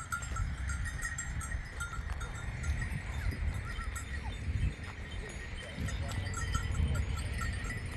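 Wind rumbling on the microphone, with faint bell-like tinkling repeating in the background throughout.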